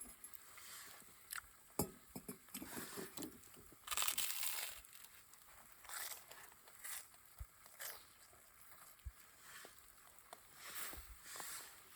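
Irregular rustling and crinkling, like something being handled, with scattered light clicks and a few soft thumps.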